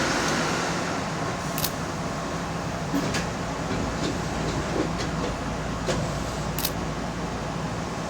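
Keihan electric commuter train's running noise as it comes to a stop at a station: a steady rumble with a high whine that fades out about a second in, then a few scattered sharp clicks.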